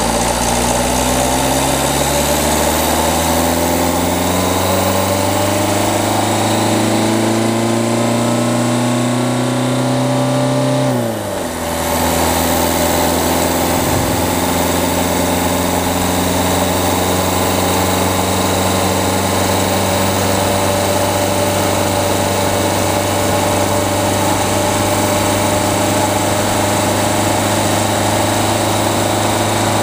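Peugeot 208's diesel engine pulling with rising revs for about eleven seconds. The level dips briefly and the pitch drops at an upshift, then the engine runs at steady revs. It is heard from a camera mounted on the front of the car.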